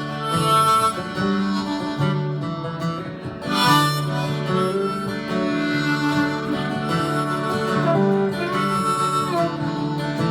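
Live Americana band playing the instrumental introduction of a song: a harmonica melody over strummed acoustic guitar.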